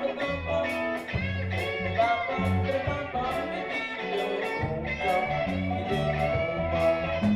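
A live band playing a reggae-style song: guitar over a bass line and a steady beat.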